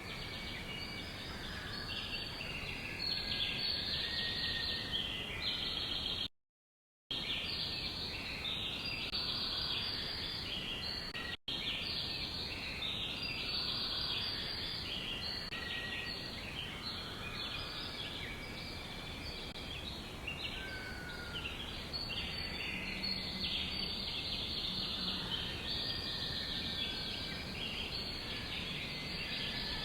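Many small birds chirping in a dense, continuous chorus of short overlapping high calls over a steady background hiss. The audio cuts out completely for under a second about six seconds in, and again for an instant about eleven seconds in.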